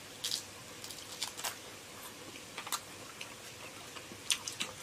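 Close-up mouth sounds of biting and chewing a battered, deep-fried meat-stuffed chili pepper: scattered short, crisp crunches of the fried batter, with a quick cluster of them near the end.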